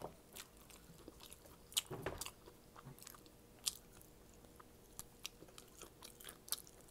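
Close-up eating sounds of a person chewing shrimp and rice: soft, irregular wet mouth clicks and smacks, with a brief louder bite about two seconds in.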